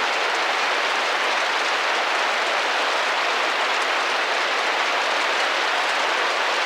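Steady rain pattering against a window pane, a dense even hiss of drops.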